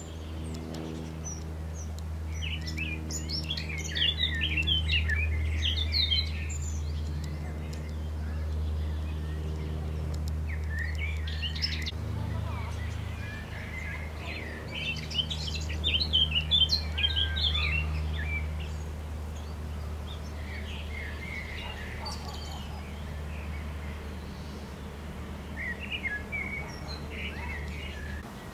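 Birds chirping in bursts of many short, overlapping high peeps, over a steady low hum.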